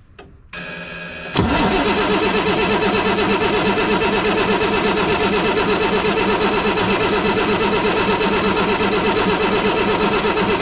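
Starter cranking the 1987 Ford L8000's turbo diesel engine. After a brief whir about half a second in, it turns over steadily and evenly without firing, because no fuel is reaching the injectors.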